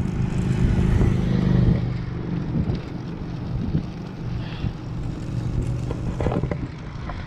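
A motor vehicle passing on the road, loudest about a second in and then fading, over steady road and wind noise.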